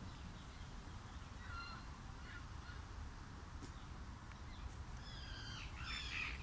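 Birds calling: a few faint calls about two seconds in, then a run of louder, harsh repeated calls near the end, over a low steady rumble.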